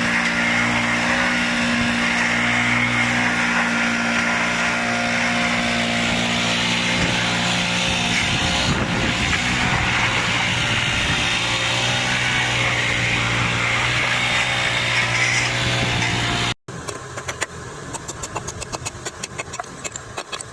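A machine running steadily with a constant hum, which stops abruptly near the end. It is followed by quick, quieter crackling clicks.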